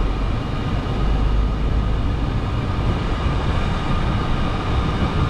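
Scania R500 truck's V8 diesel engine running under load as the truck drives, with a steady low rumble and road noise.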